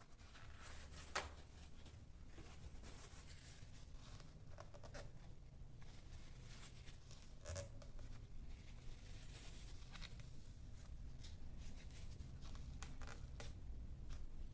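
Faint handling sounds: soft rubbing and rustling with a few small clicks, over a low steady room hum.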